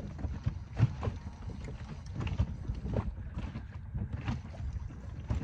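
Low rumble of wind and water around a small inflatable boat, with scattered irregular knocks and clicks.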